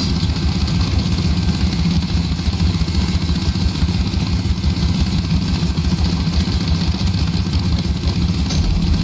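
Engine of an old log splitter running steadily, with a fast, even low chugging.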